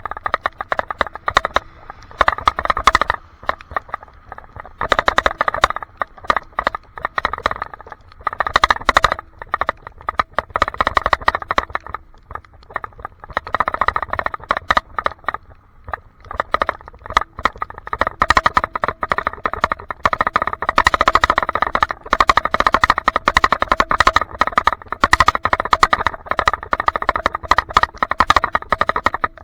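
Rapid, irregular rattling picked up through an action camera's waterproof case on a handlebar mount, with a low rumble underneath; the rattle comes in long stretches with a few brief lulls. Its cause is unknown.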